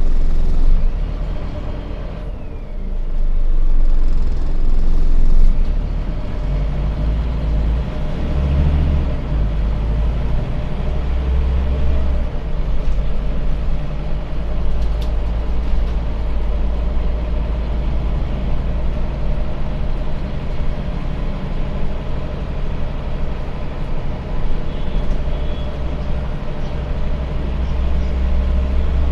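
Scania bus diesel engine running under way, heard from inside the passenger cabin, a steady low rumble with tyre and road noise. The low engine note shifts in steps several times in the first half, then runs steadily.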